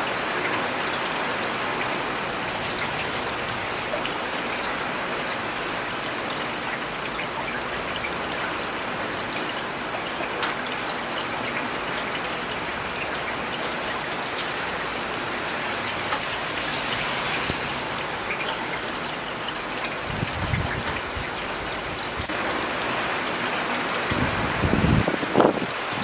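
Steady rain falling and pattering on hard city surfaces, with single drops ticking now and then. A low rumble swells up twice in the second half, the louder one shortly before the end.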